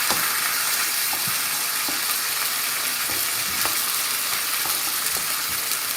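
Chicken, onions and chopped tomatoes sizzling steadily in a frying pan while being stirred, with a few light scrapes and taps of the spoon against the pan.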